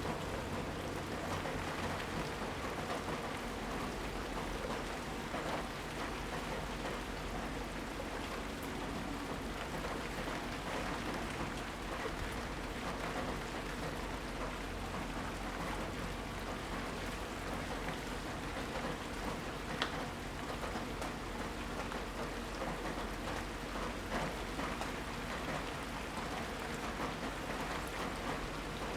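Steady heavy rain falling and pattering on surfaces, with many small drop impacts and one sharper drip about twenty seconds in.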